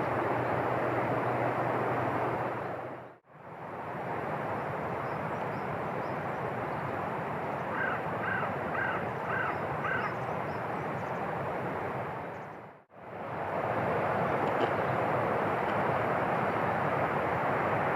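Steady outdoor rushing noise with a bird calling about five times in quick succession around the middle. The sound drops out abruptly twice.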